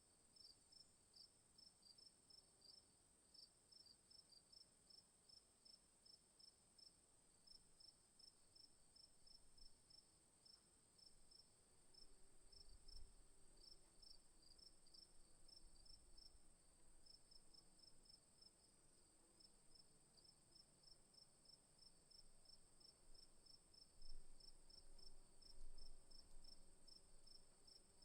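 Faint insects: a steady high-pitched drone, with crickets chirping over it about three times a second. A few soft low rumbles come through midway and near the end.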